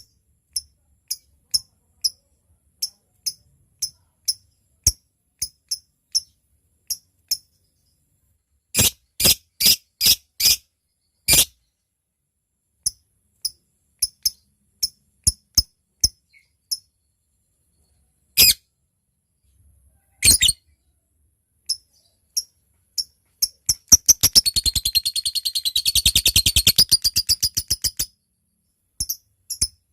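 Lovebird calling: a run of short, sharp, high chips about twice a second (the 'ngetik' call), a few louder harsh calls midway, then a rapid chattering trill lasting about four seconds near the end (the long 'ngekek').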